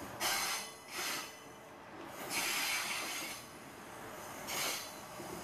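Malayan Railway (KTM) passenger train running along the track, heard from on board: a steady rushing rumble that swells several times, loudest about two to three seconds in.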